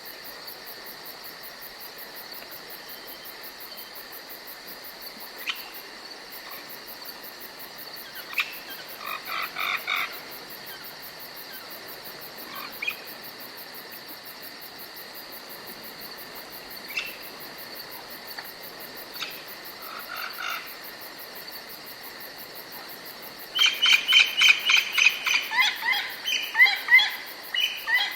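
Forest ambience: a steady high insect drone with scattered short bird calls, then a loud run of rapid repeated bird calls over the last few seconds.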